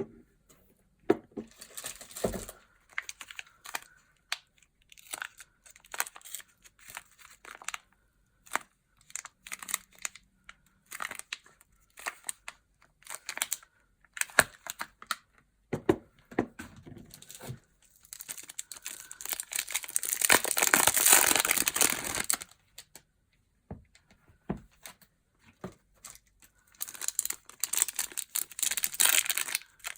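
Soap packaging being handled and unwrapped: irregular crinkling and rustling, with a longer unbroken stretch of tearing and crinkling about two-thirds of the way through.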